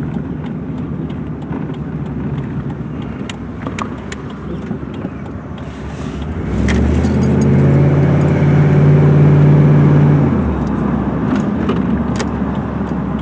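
Pickup truck engine, fitted with a K&N cold air intake, running under way with road noise. About six and a half seconds in it pulls harder and louder with a steady drone for about four seconds, then eases back off.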